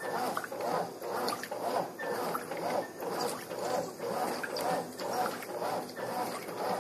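Brastemp Advance top-loading washing machine in its wash cycle: the agitator swishes back and forth, churning water and sheets in a steady rhythm of about two strokes a second.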